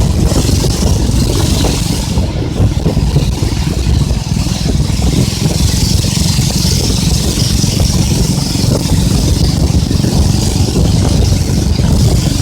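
Boat engine running steadily under way on a river, with rushing water and a loud, even rumble and hiss.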